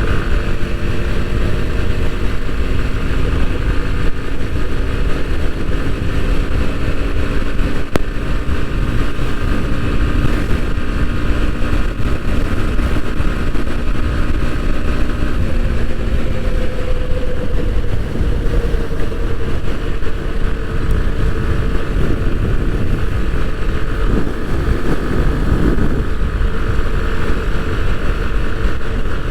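Bajaj Pulsar NS160 single-cylinder motorcycle engine running at steady highway speed under heavy wind rush on the microphone. The engine note shifts about halfway through.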